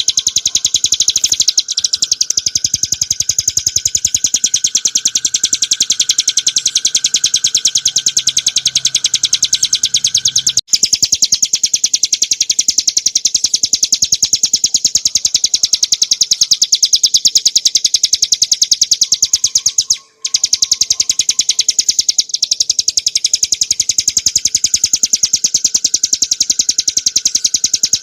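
Ciblek gunung (a prinia) singing a loud, very rapid, even trill of sharp high notes, with two brief breaks about a third and two-thirds of the way through.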